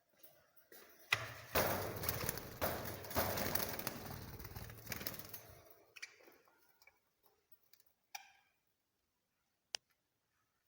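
Caged pet birds fluttering and scrabbling in their cage, a rustling burst lasting about four seconds, followed by a few single clicks and taps.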